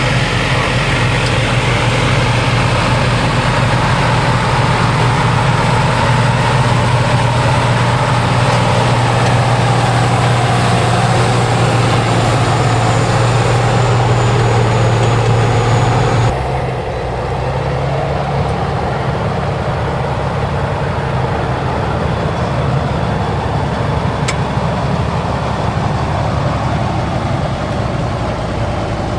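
Heavy off-road truck engine running steadily with a strong low drone. The sound changes abruptly a little over halfway through, then carries on steadily.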